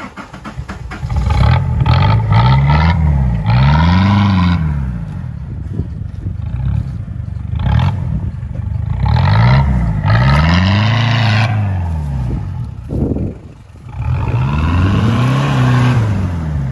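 Hindustan Contessa's Isuzu 2.0 turbo diesel engine revved hard about five times, each surge rising and falling in pitch, with a rushing noise on every surge. Near the end the car is driven off on loose dirt, kicking up dust.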